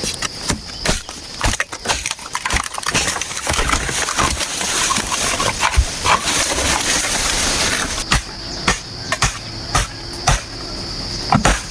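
Bamboo being worked by hand: irregular sharp knocks and clatter, with a few seconds of dense rustling and scraping in the middle that stops suddenly. A steady high insect buzz runs underneath.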